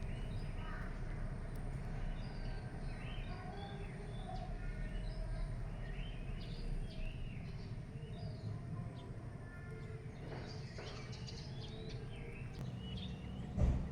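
Several birds chirping and calling in short, scattered notes over a steady low rumble, with a brief thump near the end.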